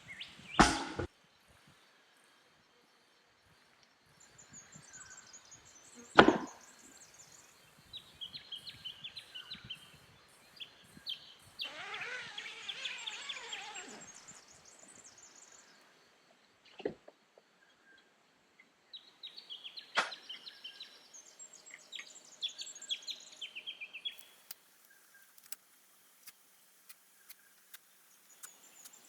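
Bush birds chirping and calling in short high-pitched phrases, including one longer call that slides downward. A few sharp knocks or cracks come in between, the loudest about six seconds in.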